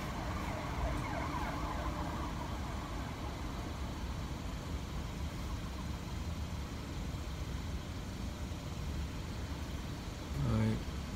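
Car engine idling, a steady low rumble heard from inside the cabin, with a short, louder pitched sound about ten and a half seconds in.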